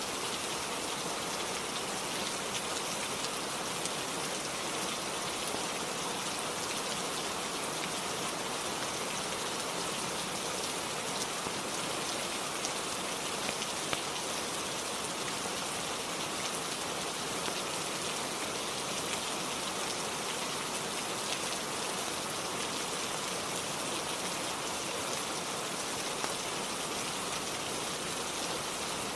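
Steady rain falling on a roof, an even hiss of rainfall with occasional small sharp ticks scattered through it.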